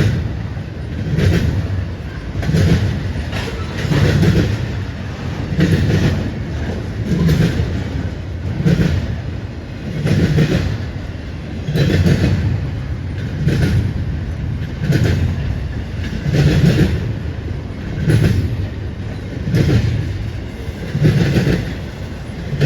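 Intermodal freight train cars rolling past, their wheels clacking over the rails in a steady rhythm of pulses about every second and a half.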